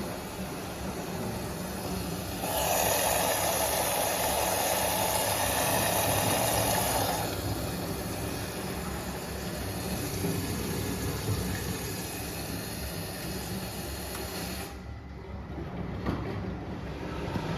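Pasvens washing machine running mid-cycle on its Cottons 40 programme: a steady low mechanical hum under a rushing hiss. The hiss swells louder about two and a half seconds in and eases a few seconds later, then its high part cuts off near the end.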